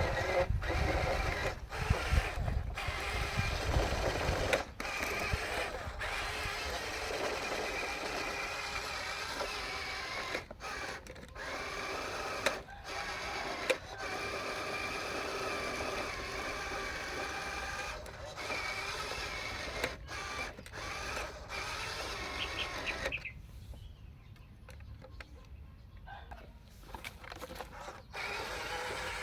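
Small electric gear motors of a radio-controlled construction model whirring, stopping and starting again many times in short runs, with a low rumble over the first few seconds and a quieter stretch near the end.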